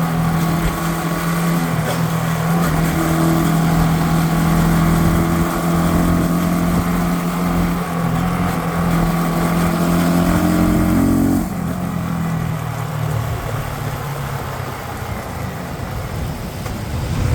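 Motorcycle engine running at a steady cruise with wind rush. About eleven seconds in, the throttle closes and the engine note drops and fades as the bike slows.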